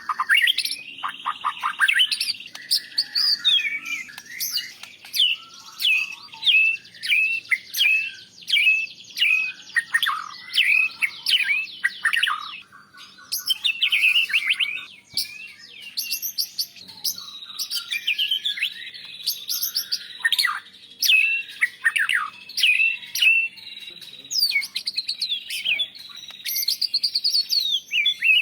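White-rumped shama (murai batu) singing: a fast, nearly unbroken run of short sweeping whistles and sharp chirps, several notes a second, pausing briefly about halfway through.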